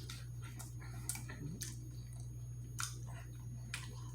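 Close-up chewing of food with wet mouth smacks and clicks, irregular, about once every half second to a second, over a steady low hum.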